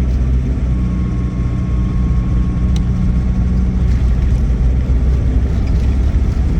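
2008 Land Rover Defender 90's 2.4-litre TDCi four-cylinder turbodiesel pulling away, heard from inside the cab with road noise.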